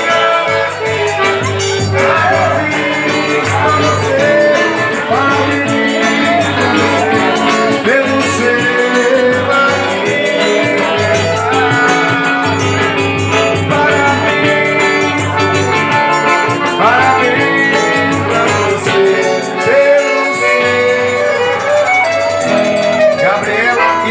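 Live forró music: a band playing steadily, with singing at times.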